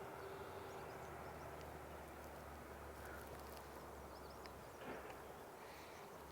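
Outdoor ambience: a steady low rumble with faint, short, high bird chirps scattered through it, and a single soft knock about three-quarters of the way through.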